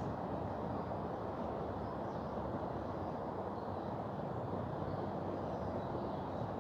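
Steady rush of a mountain river, an even, unbroken noise.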